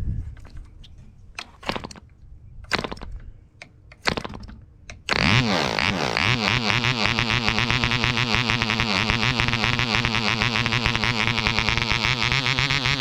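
Webra 1.5 cc model airplane diesel engine: a few sharp knocks, then the engine catches suddenly about five seconds in. Its pitch glides briefly, then it runs steadily.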